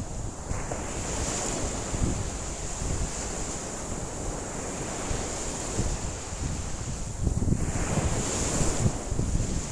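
Waves breaking and washing on a lake shore in strong wind, with wind buffeting the microphone and rising louder in gusts about seven seconds in. A steady high-pitched hiss sits over it.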